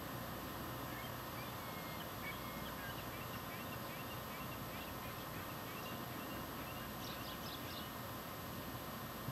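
Birds calling faintly: a scatter of short chirps, then a quick run of higher notes near the end, over a steady hiss.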